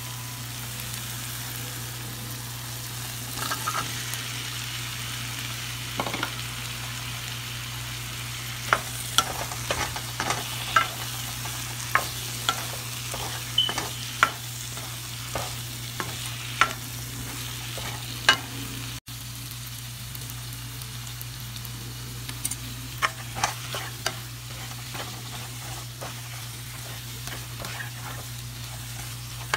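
Onion-tomato masala and chopped potatoes sizzling in a non-stick pan as they are stirred with a spoon, with a string of sharp clacks of the spoon against the pan, most of them in the middle stretch.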